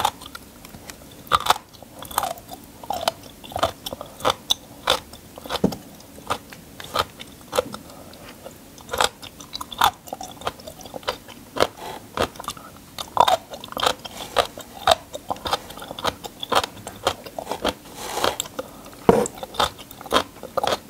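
Close-up eating of a crunchy kimchi: sharp, crisp bites and crunching chews, irregular at about one or two a second.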